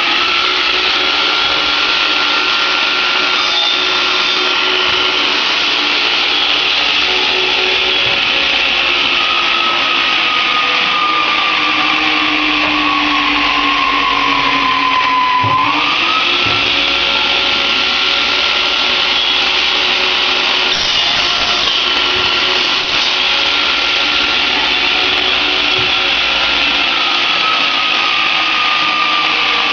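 Electric power tool motor spinning up and running at a steady high whine, its pitch sagging slowly twice as it is loaded and jumping back up about halfway through when the load comes off.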